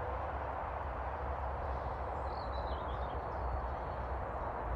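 Steady outdoor background noise with a low rumble underneath, and one brief, faint bird chirp about halfway through.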